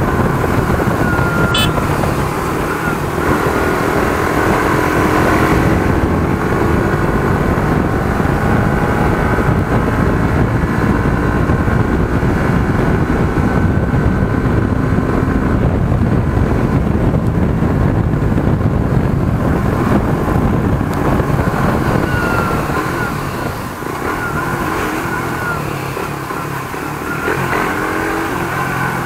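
Suzuki GSX-R150's single-cylinder engine running at speed, its pitch climbing again and again through the gears. In the last few seconds it eases off as the bike slows in traffic, then picks up again briefly.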